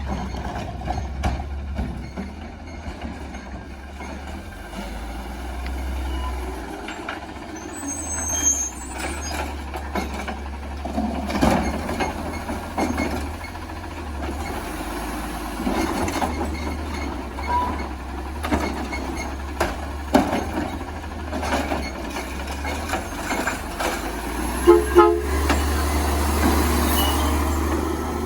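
Automated side-loader garbage truck running, its engine a steady low hum, with repeated knocks and clanks as it works a recycling route and two sharp bangs near the end.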